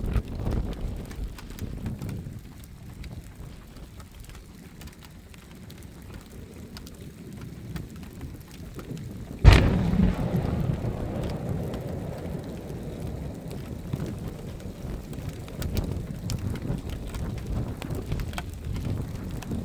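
Thunder from a cloud-to-ground lightning strike over steady rain: a sudden sharp crack about nine and a half seconds in, then a rumble that fades over several seconds, after an earlier rumble dies away in the first couple of seconds. The chaser reports that every strike in these storms was positive lightning, which gives the explosive thunder.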